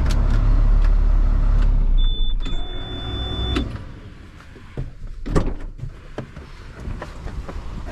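Truck engine running in the cab, then shut off about two seconds in as the low rumble dies away. A steady high warning tone sounds for about a second and a half, with a short break early on, followed by a few knocks and clunks.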